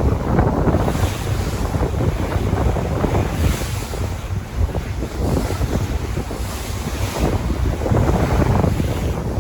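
Sea waves washing in and out, swelling every few seconds, with wind buffeting the microphone and making a heavy low rumble.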